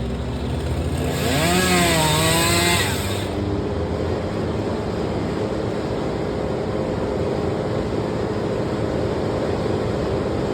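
Chainsaw engine revved once about a second in, its pitch rising and falling back, then running steadily at a low speed.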